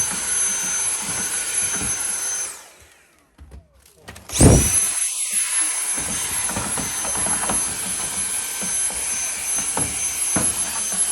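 Vacuum cleaner running, sucking dirt out of the opened dryer cabinet. It is switched off about two and a half seconds in, its whine falling away, then switched back on a couple of seconds later, the whine rising again before it runs steadily.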